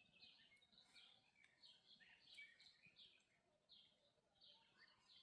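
Faint bird chirping: short, high chirps repeating steadily about three times a second.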